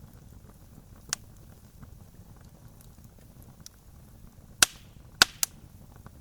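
Campfire burning with a low, steady rumble and hiss, broken by sharp pops of wood crackling: a single pop about a second in, then three loud snaps close together near the end.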